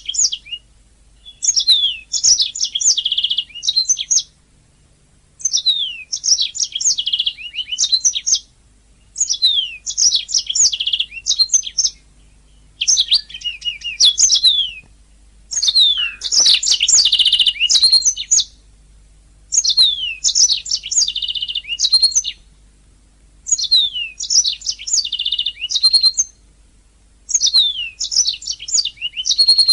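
Domestic canary singing in a run of song phrases, each two to three seconds long, built from quick downward-sweeping whistles and rapid trills, with pauses of about a second between them.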